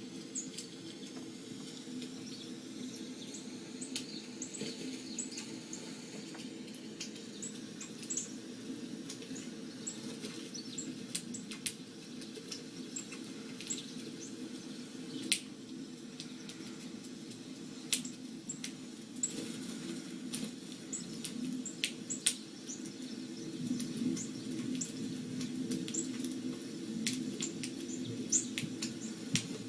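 Small birds chirping in short, scattered high peeps and ticks over a steady low hum.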